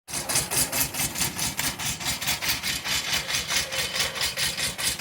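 Yanmar-built two-cylinder diesel of a John Deere 650 compact tractor running at idle, with a steady, even rhythmic clatter.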